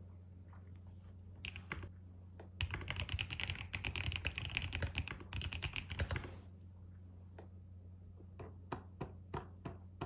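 Typing on a keyboard: a fast run of keystrokes for about four seconds, then a few separate key presses near the end, over a steady low hum.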